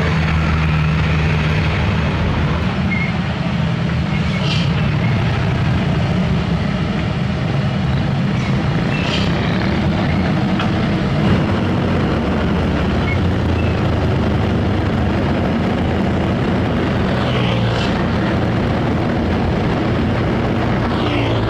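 Heavy diesel engine running steadily under load, with a few brief hisses over it.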